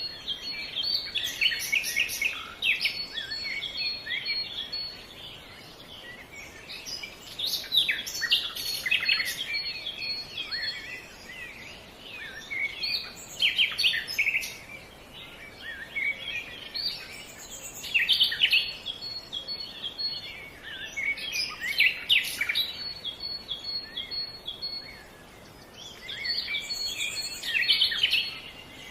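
Several birds singing and chirping in bouts every few seconds, with a rapid high trill that comes back several times, over a faint steady outdoor hiss.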